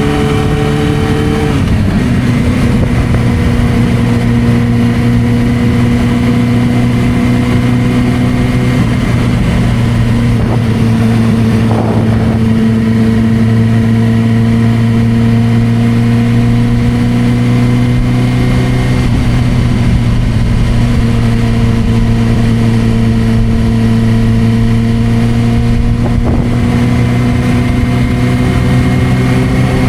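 Suzuki GSR600's inline-four engine running through a Dominator aftermarket exhaust while riding. The note drops in pitch about a second and a half in, then holds fairly steady with slight rises and falls.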